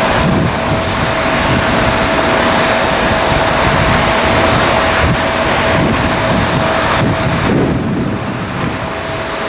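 Wind buffeting the microphone, over loud steady airport aircraft noise with a single constant whine held throughout; the high hiss eases a little near the end.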